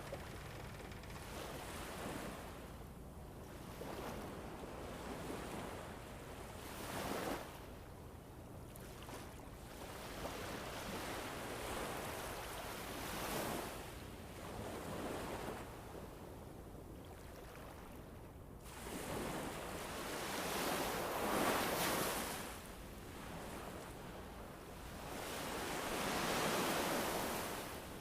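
Winter wind sound effect: a steady rushing noise that rises and falls in gusts, swelling loudest about two-thirds of the way through and again near the end.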